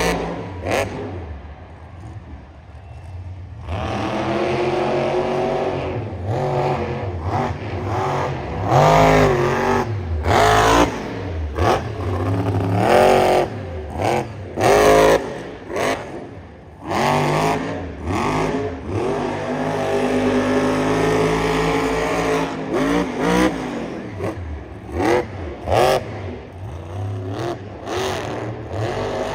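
Monster truck engine revving hard again and again, its pitch climbing and falling with each stab of the throttle, with a brief quieter lull a second or two in.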